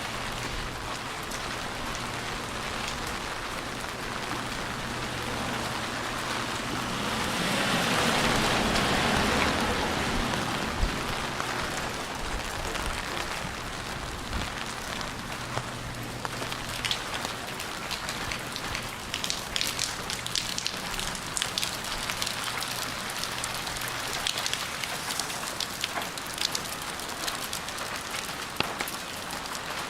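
Steady rain falling on a city street, with a louder rushing swell that builds and fades about a third of the way in. Many sharp drop ticks patter through the second half.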